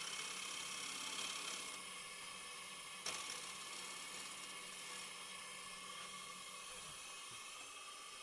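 Wood lathe running steadily, a hiss with a faint whine; the hiss eases a little about two seconds in, and there is a light tick about a second later.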